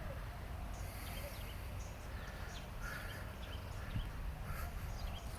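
Outdoor ambience: a steady low rumble with scattered faint bird calls.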